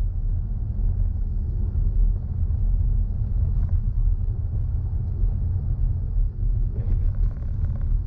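Steady low road and tyre rumble heard inside the cabin of a moving BMW i4 M50, an electric car, so no engine note is heard.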